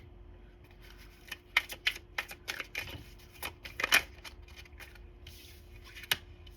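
Tarot cards being shuffled and handled: a run of quick, irregular flicks and snaps for about three seconds, the loudest near the end of the run, then a single snap near the end.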